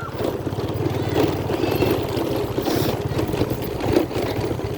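An engine idling with a rapid, steady low throb, over a busy background hum.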